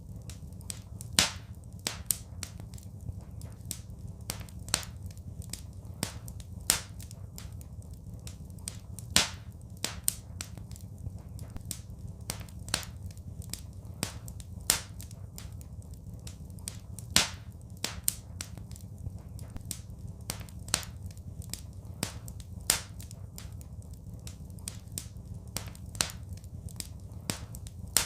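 Wood fire crackling in a fireplace: irregular sharp pops and snaps, several a second, a few much louder ones, over a low steady rumble.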